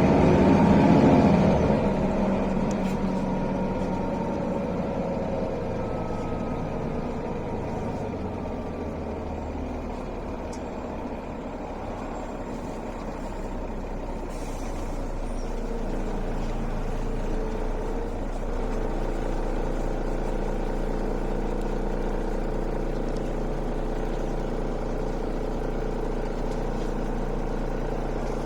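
Mercedes-Benz O405 city bus heard from inside while driving: its diesel engine running with road and drivetrain noise. The noise is loudest in the first couple of seconds, eases off in the middle, then rises again as the bus picks up.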